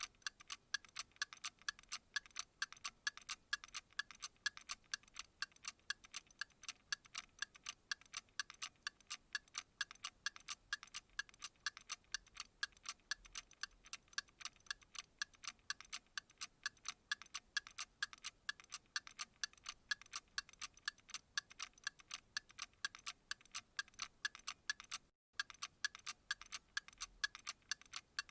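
Steady, evenly paced ticking, about three to four ticks a second, that cuts out for an instant near the end.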